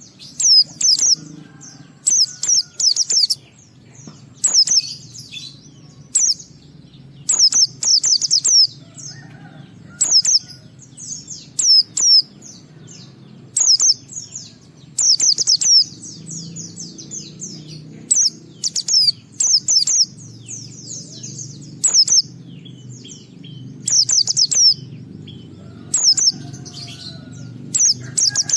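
White-eye (pleci) singing in short bursts of high, rapid twittering notes, repeated every second or two, over a faint low hum.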